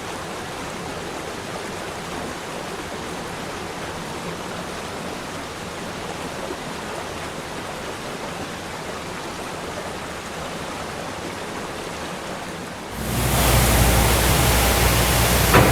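Steady rushing of Bridal Veil Falls' water, running high after heavy rain. About thirteen seconds in the rush turns suddenly much louder and deeper, and a brief click comes just before the end.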